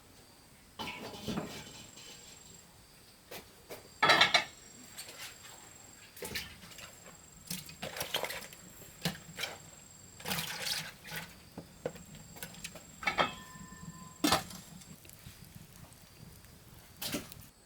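Irregular knocks, clatters and scraping rustles of hands at work, with the loudest knock about four seconds in.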